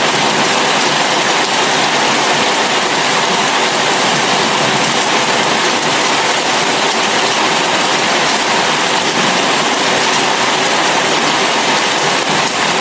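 Steady rushing road and wind noise of a car at highway speed, with no distinct impact or horn.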